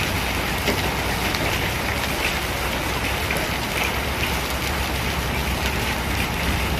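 Hailstorm: hail and rain pelting down in a steady, dense patter of many small sharp hits.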